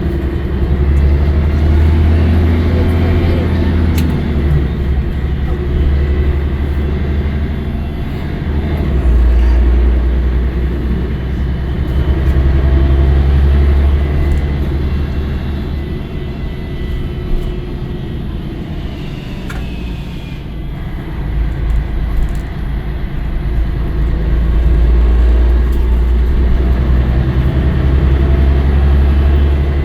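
Scania L113CRL bus's 11-litre straight-six diesel running under way, its low engine note rising and falling several times as it pulls and eases off, quietest for a few seconds past the middle.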